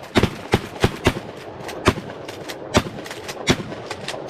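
12-gauge pump-action shotguns firing in rapid succession, about three shots a second with uneven loudness.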